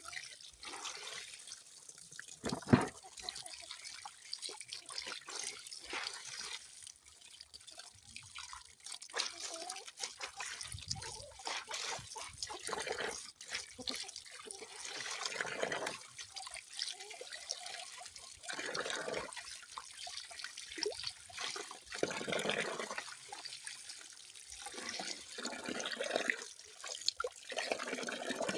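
Water trickling and splashing unevenly, with drips, in shifting irregular spurts. A single sharp, louder sound stands out about two and a half seconds in.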